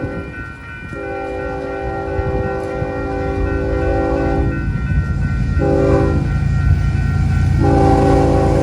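Locomotive air horn sounding a chord of several tones in long and short blasts: the end of one blast, then long, short, long, which matches the long-long-short-long grade-crossing signal. Under it, the train's rumble grows louder.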